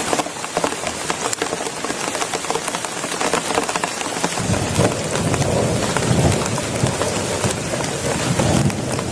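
Heavy rain pattering steadily as a dense hiss of drops. From about four seconds in, a low rolling rumble of thunder joins it and carries on.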